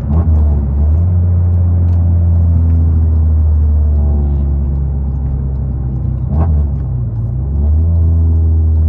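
Volkswagen Mk7 GTI's turbocharged four-cylinder running with a loud, steady low exhaust drone. The note breaks briefly twice, near the start and around six and a half seconds in, then settles again. This is the rough, droning sound of an exhaust the owner says he ruined and compares to a Detroit diesel.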